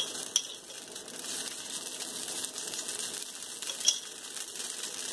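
Foxtail millet pancake batter frying in ghee on a hot iron griddle: a steady low sizzle with a few small sharp crackles, one near the start and one near four seconds.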